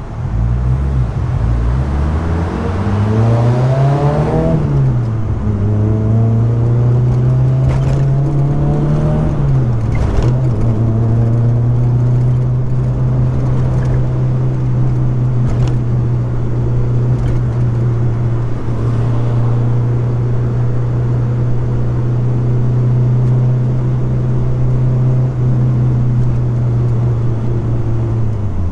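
Car engine accelerating through two gears, its pitch climbing and then dropping sharply at each upshift. It then holds a steady note at cruising speed and falls away near the end as the car slows.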